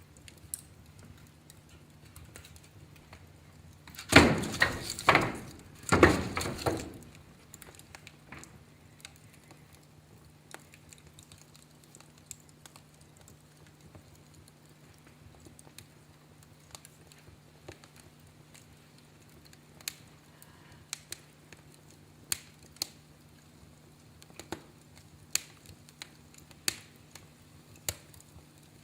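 Wood fire crackling: scattered sharp pops and clicks, coming more often near the end, with two loud bursts of crackling noise about four and six seconds in.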